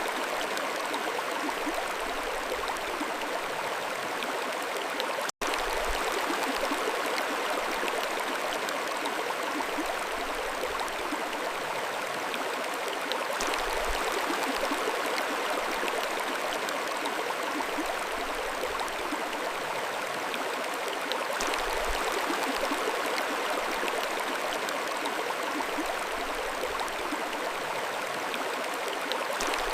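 Mountain stream flowing steadily, an even rush of water. It is broken once, about five seconds in, by a split-second dropout to silence.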